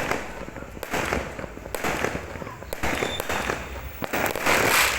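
Fireworks going off: a series of sharp bangs about once a second, then a louder, longer crackling burst near the end.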